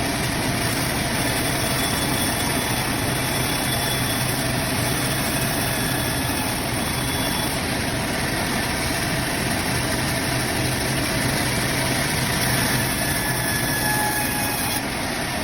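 Band sawmill running steadily, a continuous machine noise with hiss; the hiss gets stronger for a couple of seconds near the end.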